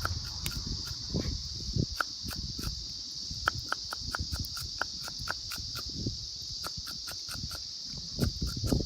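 Steady high-pitched drone of insects singing outdoors, with a run of short sharp clicks, several a second, and a few low handling thuds at the start and near the end.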